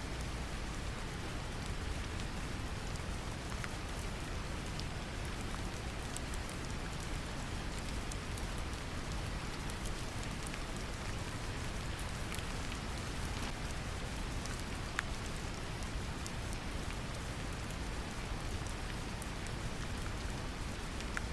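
Steady brown noise, a deep even rumble, mixed with gentle rain pattering, with scattered faint drop ticks.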